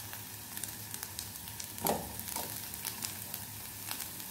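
Sliced onion and cabbage sizzling in oil in a non-stick kadai, with scattered light crackles. About two seconds in, two soft thuds as paneer strips are dropped into the pan.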